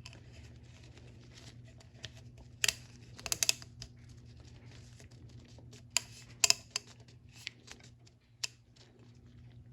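Scattered sharp clicks and taps of hands handling a plastic oil filter housing while pressing a new oiled rubber seal into its groove. A faint steady low hum runs underneath.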